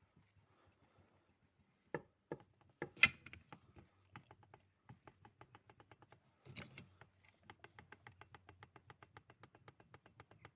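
Ford Focus 2 steering rack bar knocking in its housing as it is rocked up and down by hand: a few heavier knocks, then a quick even run of light clicks, about six a second. The knock is play left because the rack's support yoke no longer presses the bar, with a short adjuster spring and a worn PTFE bush.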